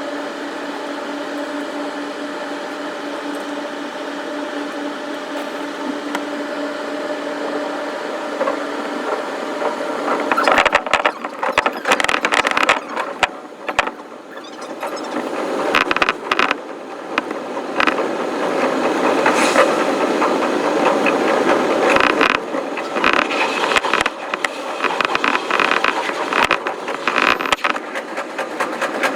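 Electric commuter train's running noise, sped up: first a steady hum, then from about ten seconds in a dense, fast rattle and clicking of the wheels and car body on the rails.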